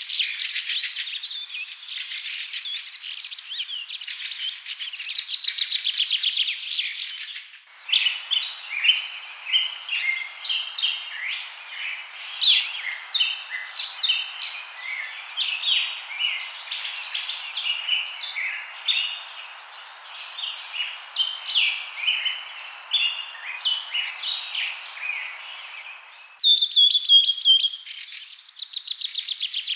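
Songbirds chirping and singing in quick, repeated high notes, in three spliced recordings: a rapid trilling chorus, then from about seven seconds in many short separate chirps over a steady hiss, then a different clear chirping near the end.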